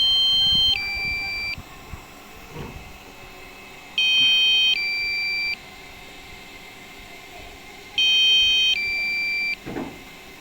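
Two-tone electronic warning alarm from a DJI Mavic Pro's controller: a high tone pair for under a second steps down to a lower tone pair, and the pattern repeats three times, about every four seconds. It is alerting the pilot to strong wind at altitude while a low-battery warning is active.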